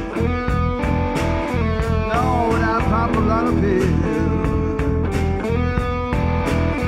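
Rock band playing: electric guitar lead with bent notes over bass and drums keeping a steady beat.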